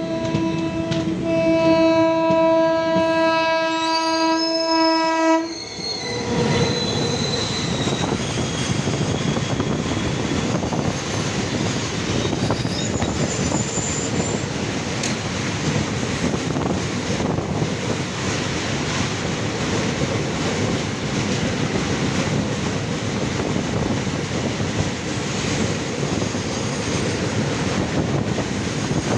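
Indian Railways locomotive horn sounding one long blast of about five seconds. It cuts off and a train runs past close by, with a steady rumble and clatter of wheels on rail. Thin high wheel squeals come through for several seconds after the horn.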